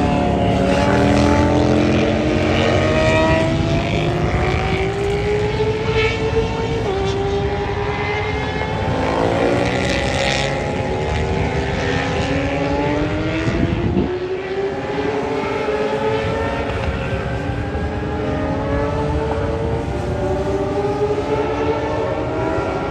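Several vintage racing motorcycle engines at once, their overlapping notes rising and falling in pitch as the bikes rev up and back off around the course.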